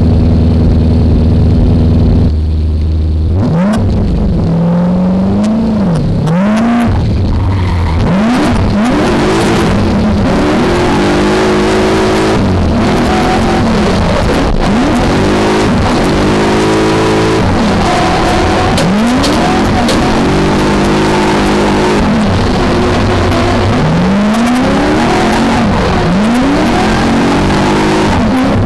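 V8 engine of a BMW E30 drift car held at steady revs for about two seconds, then revving up and down again and again as the throttle is worked through the drift.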